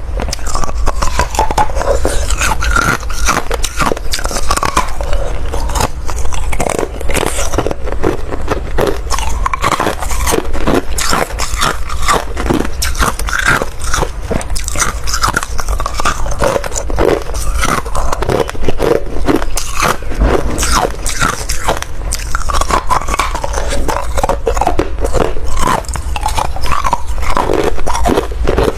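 Close-miked ice being bitten and chewed, a steady run of loud, sharp crunches and crackles with no pause.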